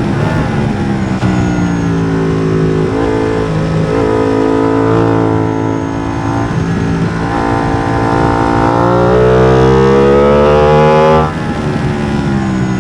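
Ducati Streetfighter V2's 955 cc Superquadro V-twin, with a Deussen map and an MIVV exhaust with the dB killer removed, accelerating hard through the gears at full track pace: its pitch climbs, breaks at each shift and climbs again. It is loudest about 9 to 11 seconds in, then the throttle shuts suddenly.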